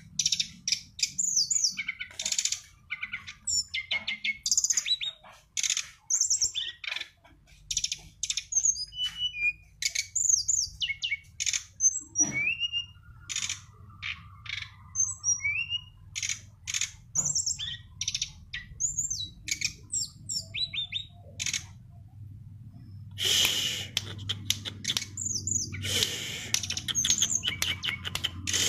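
A songbird singing a fast, varied run of short chirps, trills and whistled notes, with a faint steady low hum beneath.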